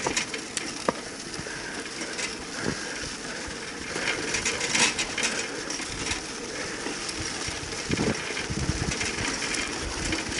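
Vehicle ride noise: a steady rumble and hiss with scattered rattles and knocks.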